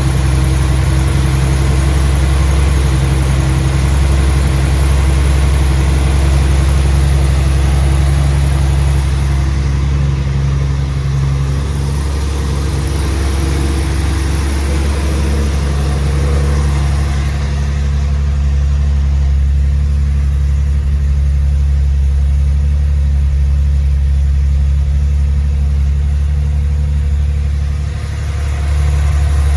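1971 Datsun 240Z's straight-six engine idling steadily just after a cold start, the idle settling and the high hiss easing after about ten seconds.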